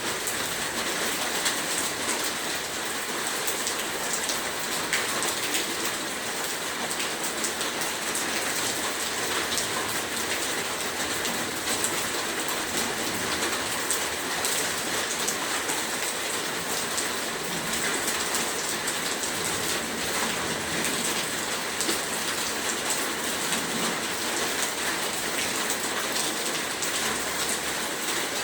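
Heavy rain falling steadily, a dense even hiss with many drops pattering on a surface.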